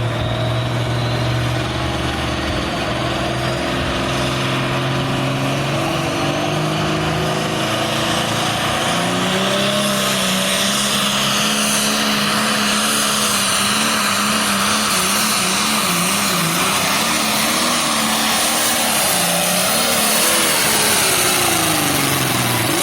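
Pulling tractor's engine running hard at full throttle during a pull, its pitch climbing over the first several seconds, then holding with some wavering, and dropping away near the end as it comes off power.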